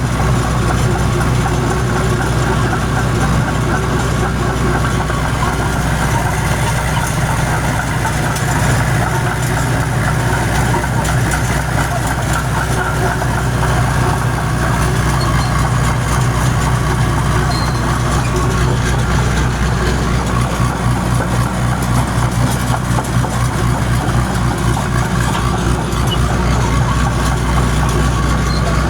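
John Deere crawler dozer engine running steadily at an even, low hum.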